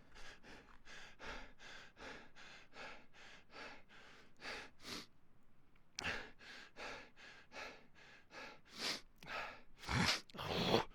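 A person panting rapidly, short breaths in quick succession about three a second. They stop briefly about five seconds in, then resume, growing louder near the end.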